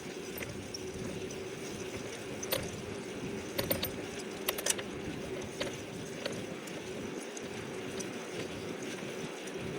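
E-bike being ridden: a steady hiss of wind and tyres with a faint steady hum, and a few sharp clicks and rattles from the bike a few seconds in.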